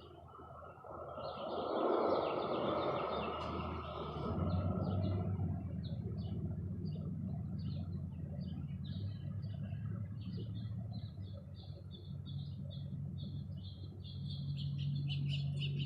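Small birds chirping in quick, short notes that grow denser near the end, over a low steady hum. A rushing noise swells and fades in the first few seconds.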